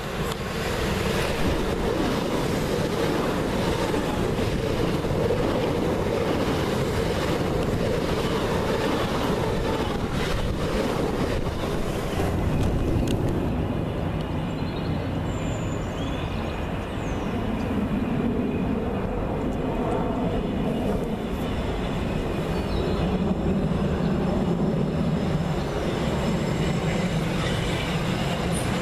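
Electric multiple-unit passenger trains passing through a station. The first runs through at speed with a loud rush of wheels on rail over the first dozen seconds. The second comes in and draws alongside near the end, with a rising hum and a high steady whine.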